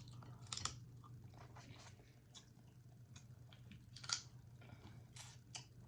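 Faint clicks and crunches of snow crab legs being cracked and picked, with chewing, over a steady low hum.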